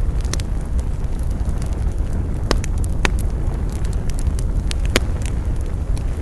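Wood campfire crackling: scattered sharp pops and snaps, a few louder ones near the middle and about five seconds in, over a steady low rumble.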